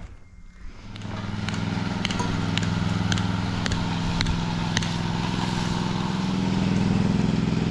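An engine comes in about a second in and runs steadily, with a sharp click about twice a second.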